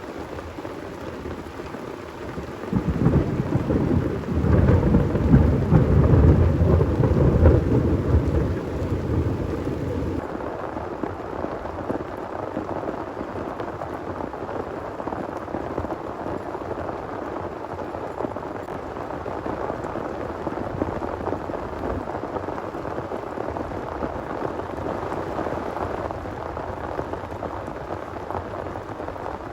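Heavy rain falling steadily, with a long low roll of thunder that builds about three seconds in, is loudest a few seconds later, and dies away about ten seconds in, leaving the steady rain.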